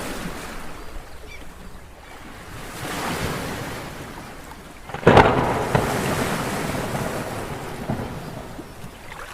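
Sea waves and wind: a swell rises about three seconds in, then a wave crashes suddenly about five seconds in and washes away slowly.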